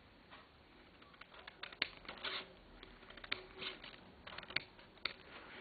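Thin flexible plastic sheet being cut out by hand along a traced outline: irregular sharp clicks and short scraping strokes, a few louder snaps among them.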